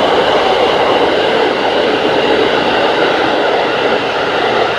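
Electric train running on the rails: a loud steady rumble with faint high tones above it.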